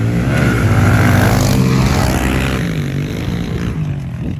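Small 110cc four-stroke pit bike engines revving up and down as the bikes ride by on a dirt track, loudest about a second in and then easing off.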